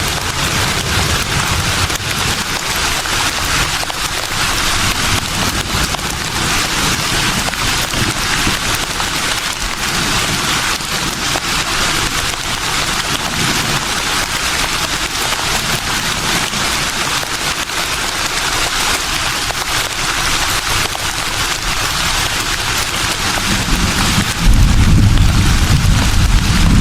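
Leaves rustling steadily in a breeze, a dense crackly hiss. A deeper wind rumble comes in near the end.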